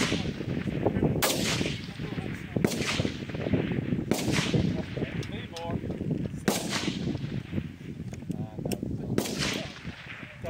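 Five rifle shots ring out at uneven intervals along a target-rifle firing line, each a sharp crack with a trailing echo. Wind buffets the microphone with a steady low rumble between the shots.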